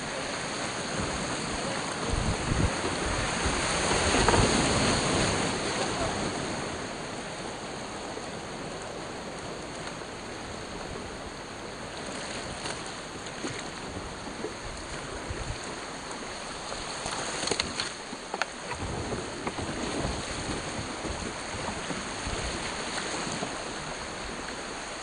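Whitewater kayak on a rocky creek: rushing, splashing river water around the boat, swelling louder for a couple of seconds about four seconds in, with scattered short knocks and splashes.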